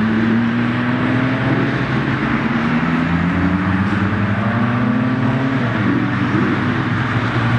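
Car engines running under light throttle as cars pull away, their pitch climbing slowly several times over, with more than one engine heard at once.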